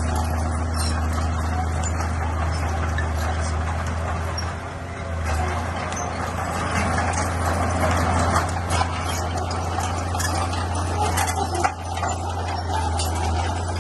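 Bulldozer's diesel engine running steadily under load, easing briefly about five seconds in, with scattered metallic clanks and rattles over it.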